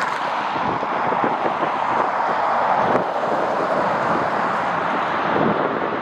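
Jet airliner's engine noise, a steady rushing sound, with gusty wind on the microphone.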